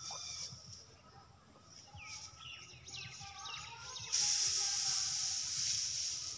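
A bird chirping several times in quick notes that each fall sharply in pitch. Then, about four seconds in, a loud steady hiss starts suddenly and covers everything else.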